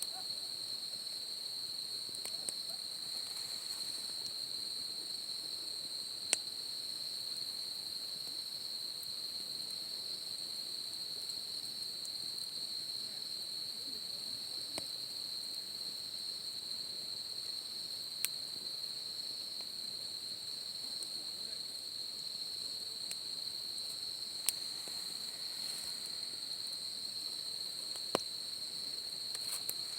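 Insects trilling in a steady, unbroken high chorus, with a few single sharp pops from the crackling campfire about 6, 18, 24 and 28 seconds in.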